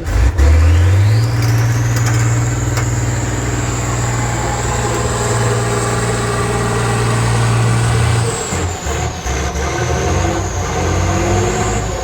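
Competition trial truck's diesel engine revving up hard and held at high revs for about eight seconds, with a high whistle climbing with the revs. It then eases off and revs unevenly, and the whistle falls away near the end.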